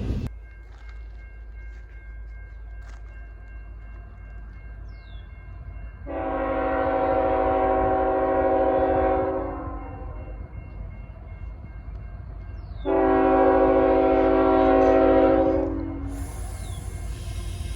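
Locomotive air horn sounding two long blasts, each about three seconds, over a low steady rumble from the train.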